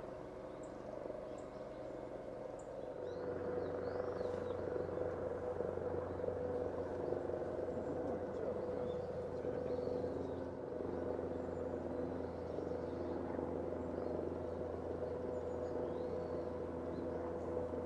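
A steady machine-like drone with a low hum, which grows louder about three seconds in. Faint, brief high bird chirps sound over it now and then.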